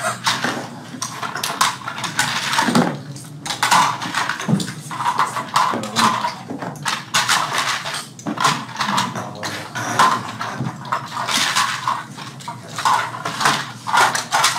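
Busy, irregular clatter and clicking of small hard toy-airplane parts being picked up, put down and fitted together at several assembly workstations.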